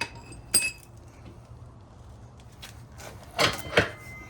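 Metal parts being handled: two sharp clinks with a brief ring near the start, then two louder clunks about three and a half seconds in.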